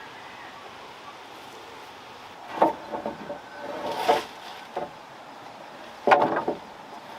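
A few wooden knocks and clatters at irregular intervals, the loudest cluster coming about six seconds in.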